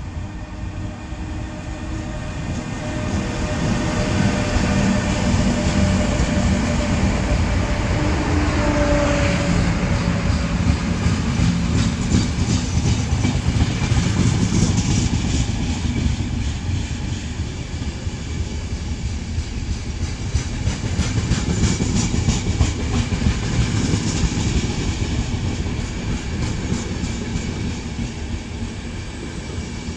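Electric locomotive and a long train of passenger coaches passing at speed. The rumble builds over the first few seconds, then the coaches roll by with repeated clacks of their wheels over the rail joints, easing off near the end.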